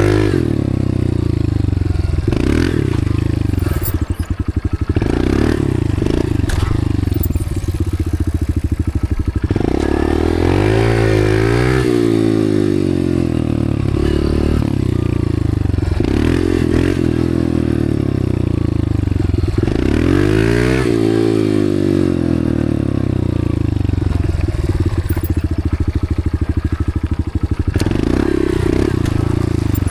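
Dirt bike engine running hard on the track, its pitch climbing and dropping again and again as the throttle is opened and rolled off, with the biggest climbs about a third and two-thirds of the way through.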